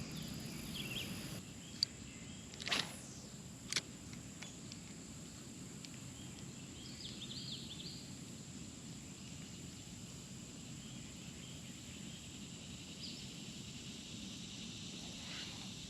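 Quiet outdoor pond ambience: a faint steady background noise, with a few short knocks in the first four seconds and faint high chirps around seven seconds in and again near thirteen seconds.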